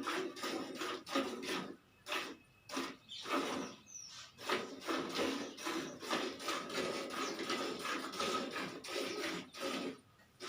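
Milk squirting into a pail as a cow is milked by hand, in a quick hissing rhythm of about three strokes a second with a few brief pauses.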